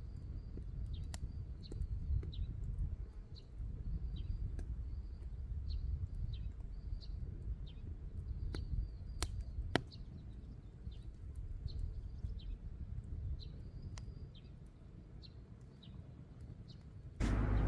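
Outdoor ambience: a small bird repeating a short high chirp about once or twice a second over a steady low rumble, with a few sharp clicks. A loud rush of noise cuts in suddenly at the very end.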